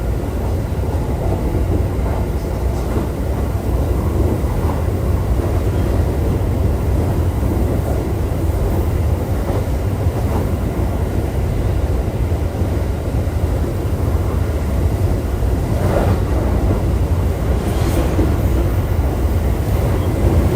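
JR E531-series electric multiple unit running at speed, heard from inside the passenger car: a steady low rumble of wheels on rail and running gear, with a couple of sharper knocks from track joints near the end.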